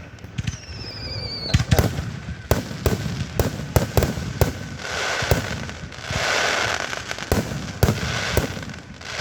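Fireworks going off: a rapid, irregular series of sharp bangs, with a rising whistle in the first second and a half that ends abruptly in a bang, and a longer hissing burst a little after the middle.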